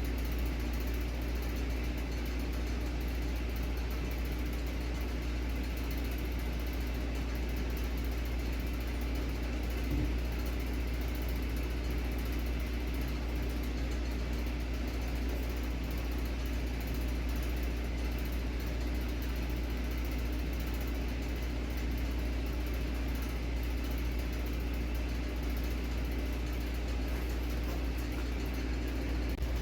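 A steady low mechanical hum that holds unchanged throughout, with one faint knock about ten seconds in.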